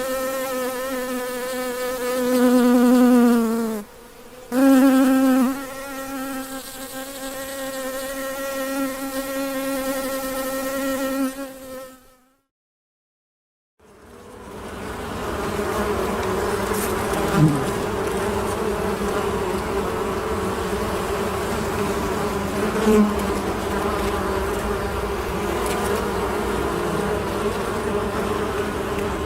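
Honey bee buzzing close by, one steady humming tone that breaks off briefly about four seconds in. It fades out about twelve seconds in, and after a second or so of silence a denser, steady hum of many bees fades in.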